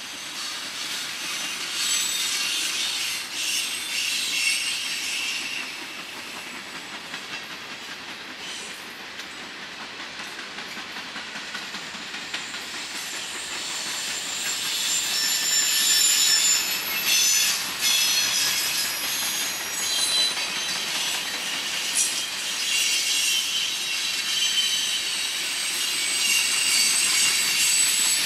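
Train cars rolling past with wheels squealing in high, shifting tones over a steady rumble, with scattered sharp clicks. The squeal grows louder about halfway through.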